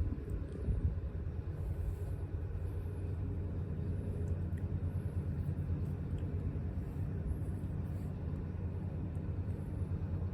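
Yamaha Tricity 155 scooter's single-cylinder engine running at a steady speed, a low even hum that neither revs up nor dies down.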